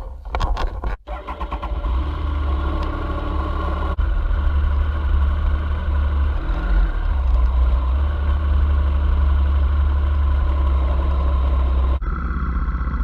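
Motorcycle engine running as the bike pulls away and rides, under a loud, deep wind rumble on the helmet microphone. A few clicks and knocks come in the first second or two.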